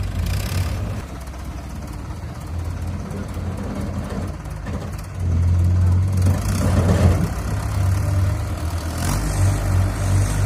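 Heavy diesel vehicle engine running steadily, growing louder and working harder about five seconds in.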